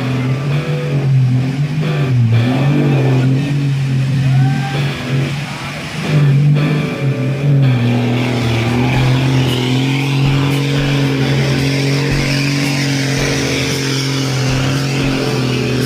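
Truck engine running, its pitch dipping and rising a few times in the first half and then holding steady, with a hiss building from about ten seconds in.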